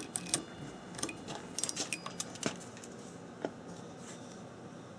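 Small metal parts and tools clinking and clicking as they are handled: a quick irregular run of light taps and clinks, a few with a short ringing tone, dying away after about three and a half seconds over a faint steady hum.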